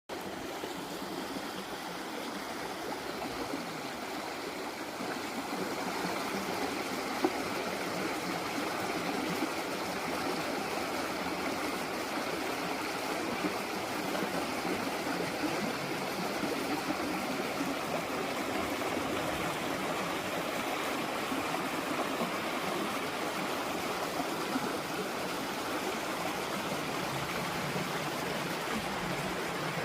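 Steady rushing of a flowing stream, without a break, with a few faint clicks.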